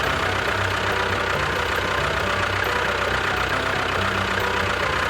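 Small engine of a DIY mini tractor running steadily at idle, with a fast, even rattling chatter.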